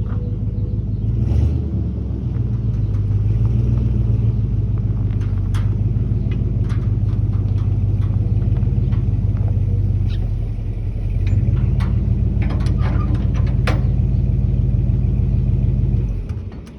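The engine of a 1968 Chevrolet K20 pickup running steadily, with clinks and rattles over it. It eases off briefly about two-thirds of the way through, picks up again, and is cut off just before the end.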